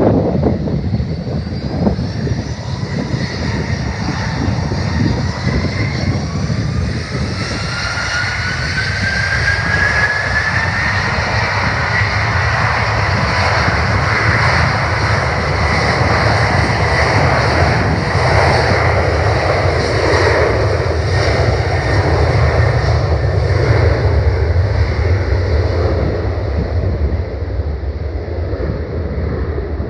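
Jet airliner passing close, a steady engine roar and rumble with a turbofan whine that glides upward in pitch over the first dozen seconds and then holds; the low rumble eases near the end.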